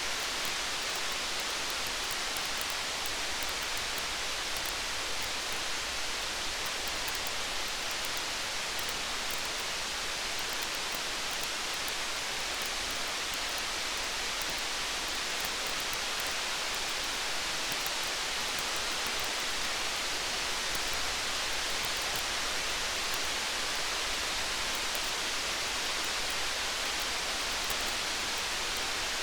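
Steady rain, an even hiss, mixed with a campfire whose crackles come through only as faint light ticks.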